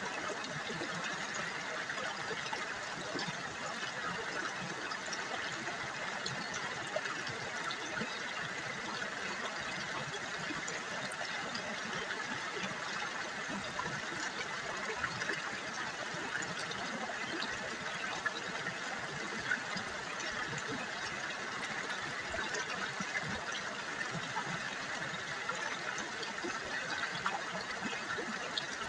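River water babbling and trickling over stones, a steady splashing without pause.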